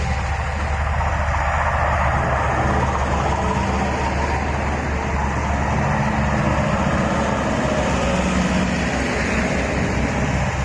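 Road traffic: motor vehicles, trucks among them, running past with engines and steady road noise.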